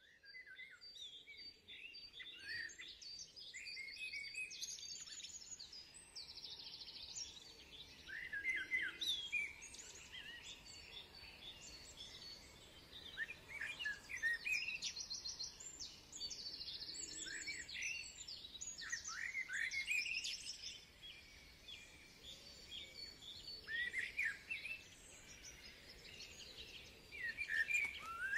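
Songbirds singing, with short chirping phrases and quick trills every few seconds, over a faint steady background rumble.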